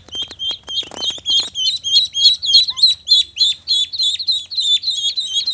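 Rapid, high-pitched bird chirps repeated about three to four times a second, with a few sharp clicks in the first second and a half.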